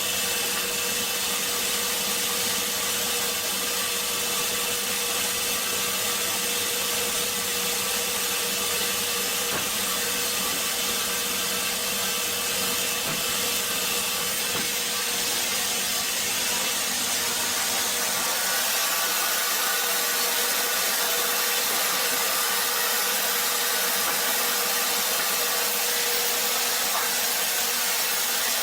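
Powered wood-cutting machine running steadily: a constant whine over a rushing noise, with no change in pitch or level.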